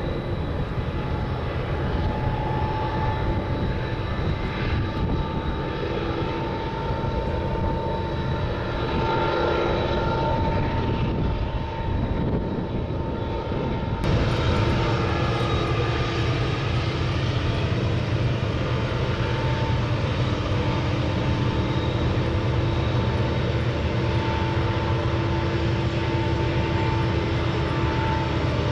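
A steady engine drone with a constant hum, a little louder from about halfway through.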